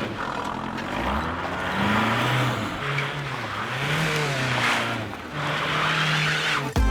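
Car engine running and being revved, its pitch rising and falling several times, then held fairly steady near the end.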